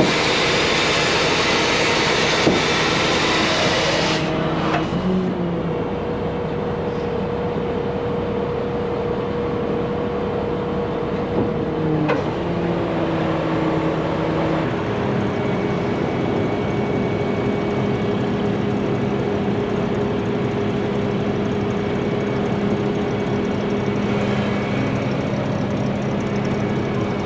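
Heavy truck engine running steadily, its pitch and tone shifting abruptly a few times, about 4 and 15 seconds in.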